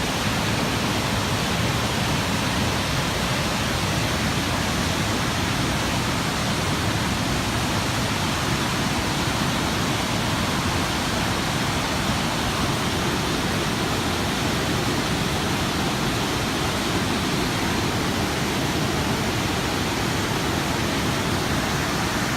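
Fast, silty glacial river rushing in a steady, dense roar of whitewater with no breaks.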